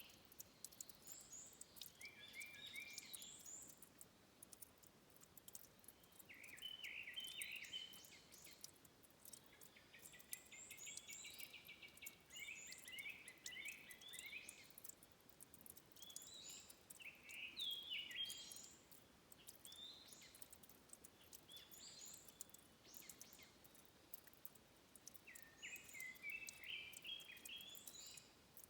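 Songbirds singing faintly in short, repeated chirping phrases every few seconds, over a scatter of faint small clicks.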